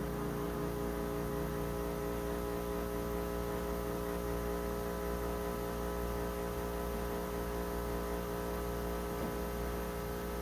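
Steady machine hum made of several held tones, with a faint low pulse repeating a little under twice a second.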